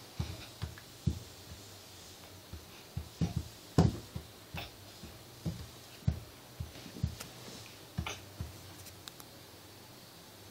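A dozen or so soft knocks and thumps at irregular intervals over a low steady hum, the loudest about four seconds in.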